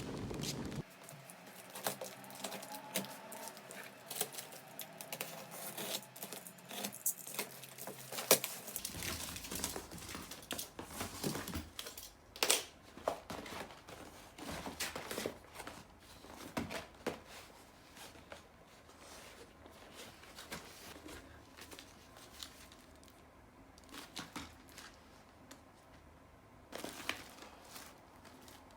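Irregular crinkling and rustling with many scattered clicks and taps, as something is handled close by.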